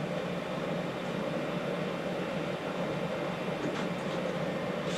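A steady, even mechanical hum over a faint hiss, with no distinct knocks or clicks.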